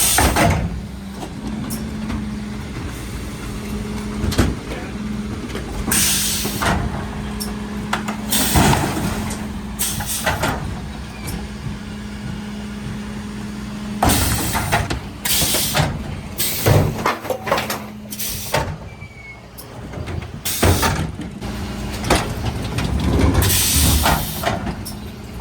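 Mercedes Econic refuse truck running with a steady low hum, broken about six times by loud hisses and clatters from the truck and its bin-lifting gear.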